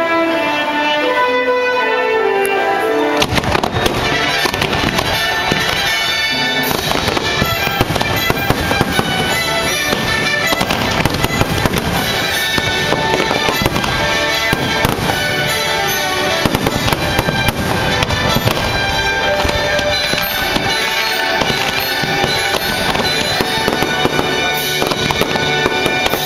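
Fireworks display firing in rapid succession, a dense barrage of booms and crackles that starts about three seconds in and keeps going, over loud music of American composers played through the show's sound system.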